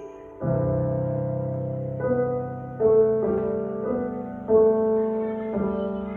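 Piano playing slow, sustained chords without voice, a new chord struck roughly every second and left to ring.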